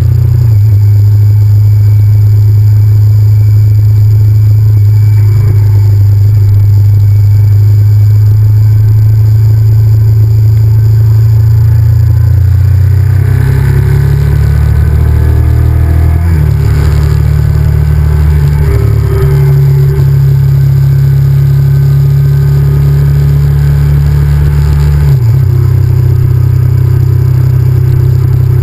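Honda VTR1000F's V-twin engine running under way, heard from a GoPro on the bike with heavy low rumble. Its note shifts in steps several times, dropping and rising about halfway through and again near the end.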